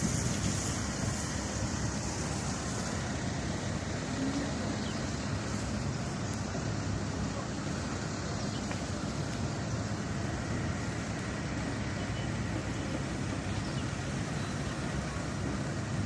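Steady city street traffic noise: a constant rumble of passing vehicles.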